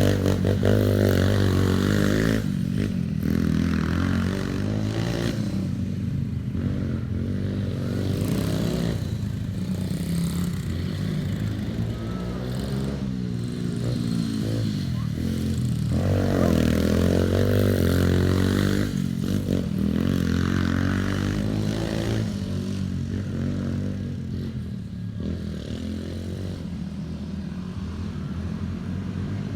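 Pit bike engine revving up and down as it is ridden, the pitch rising and falling every few seconds.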